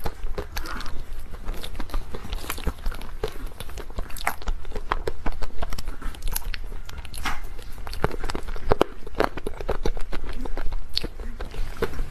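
Close-miked eating: biting into and chewing dessert, with many sharp, irregular crunchy clicks.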